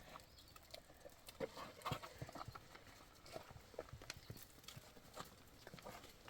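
Faint, irregular clicks and knocks.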